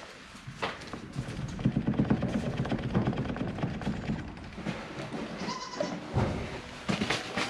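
Goats bleating: a long, low, wavering call, then a shorter, higher call a little over five seconds in.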